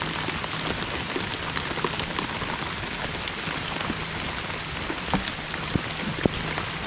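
Heavy rain pouring down, a steady hiss with many small drop strikes close to the microphone and a few sharper taps in the last couple of seconds.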